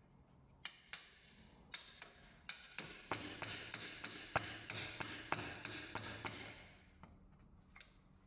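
A tool striking the oil sump of a Peugeot 1.2 PureTech engine as the sealed sump is worked loose. There are a few separate sharp knocks, then for about four seconds a faster run of knocks with a rasping noise between them.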